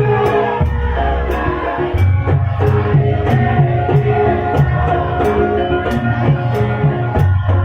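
Live Javanese gamelan music: sustained metallic tones over drums keeping a steady beat.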